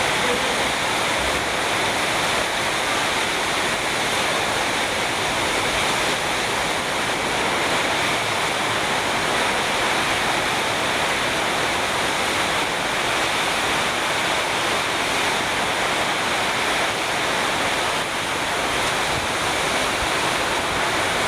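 Heavy rain pouring in a steady, loud downpour, driven by strong wind.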